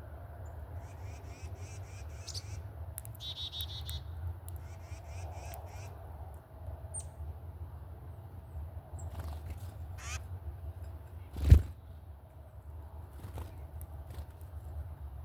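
Wild birds calling in short runs of high notes, over a steady low rumble, with one sharp loud knock about eleven and a half seconds in.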